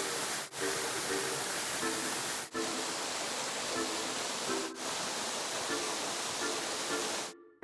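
Steady rush of falling water from a waterfall with background music over it. The water sound breaks off briefly three times and cuts out suddenly near the end, leaving only the music.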